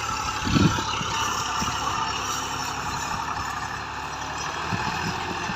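Tractor engine running steadily in the background.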